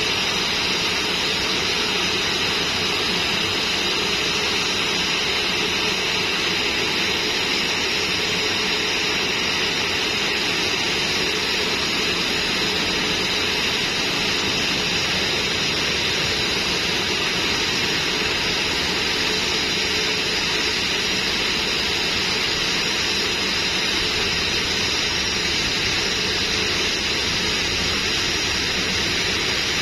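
A Nok Air airliner's engines running steadily: an even rushing noise with faint high, steady whining tones.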